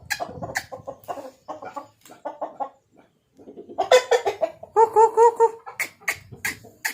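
Aseel chickens clucking: a run of short clucks, then a louder series of pitched clucks about four seconds in. A few sharp clicks come near the end.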